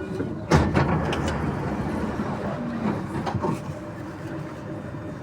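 NS-93 metro train's sliding passenger doors opening with a sudden loud rush about half a second in, as the train stands at the platform; its steady motor whine stops at the start.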